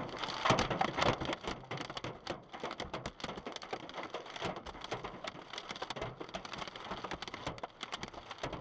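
Hailstones pelting a car's body and glass: a dense, irregular clatter of sharp clicks.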